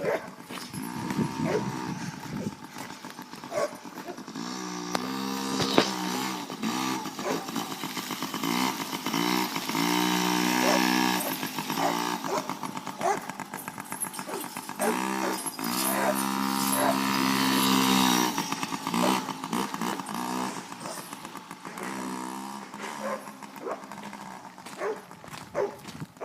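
Small 50cc motorbike engine being ridden around, revving up and easing off again, with three louder spells of acceleration.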